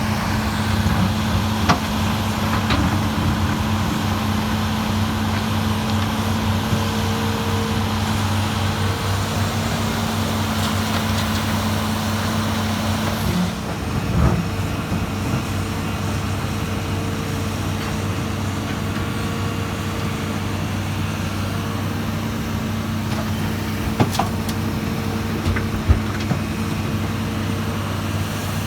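Heavy diesel engine of an earthmoving excavator running steadily with a low hum. About 13 seconds in one of its tones drops out and the hiss lessens, and a few short knocks come later.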